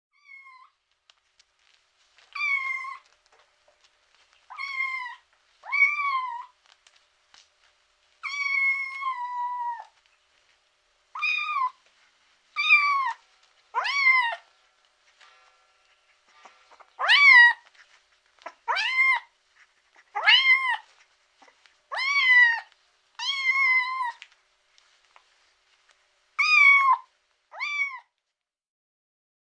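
Domestic cat meowing over and over: about fifteen separate meows, each rising and then falling in pitch, one to two seconds apart. One longer, drawn-out meow comes about eight seconds in.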